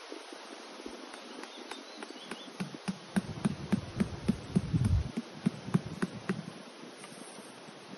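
Steady rush of river water, with a run of irregular knocks and low thuds through the middle, about two or three a second, loudest around the middle and fading out after about six seconds.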